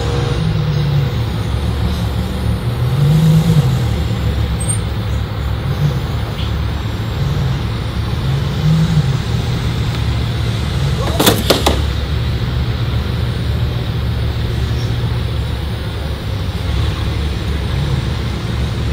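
Supercar engine idling with a deep steady rumble, its pitch rising briefly a few times. About eleven seconds in, a quick cluster of sharp clicks or knocks.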